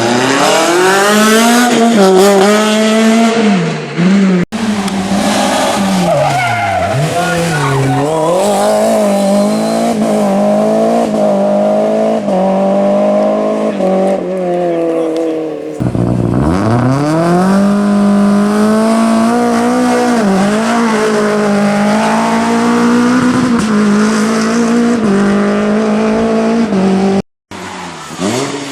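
Renault Clio rally car engines revved hard, the pitch climbing and dropping through gear changes and lifts. The sound comes in several short passes cut together, with abrupt breaks about 4, 16 and 27 seconds in.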